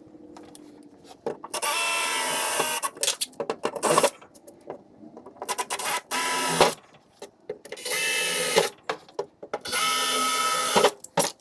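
Cordless drill running in about five short bursts of a second or so each, a steady whine while driving in the fuel cell's mounting bolts, with small clicks between bursts.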